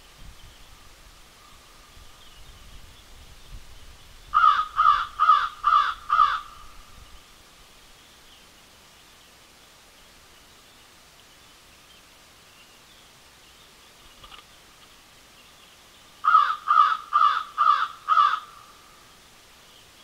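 A bird calling out of sight, twice giving a run of five loud calls about two and a half a second, the runs some twelve seconds apart.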